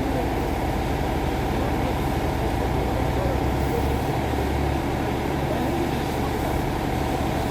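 A motor vehicle's engine idling steadily with a low, even rumble, with faint voices in the background.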